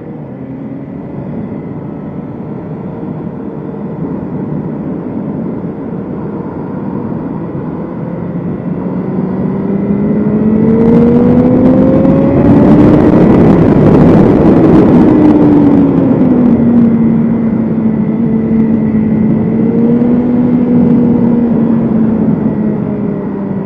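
BMW S1000RR inline-four motorcycle engine running under way. Its pitch climbs as it accelerates for a few seconds, it is loudest with a rush of wind, then it eases back and holds a steady lower pitch.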